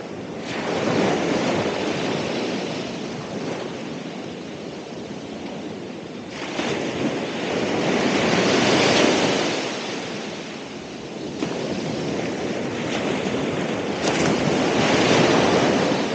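Ocean waves breaking on the shore, the surf swelling and falling back in three surges, the loudest near the middle and the end.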